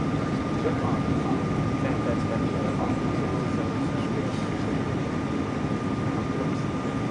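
Steady cabin noise inside a Boeing 777-200ER airliner: an even, deep rush of engine and airflow noise with a thin steady whine riding above it.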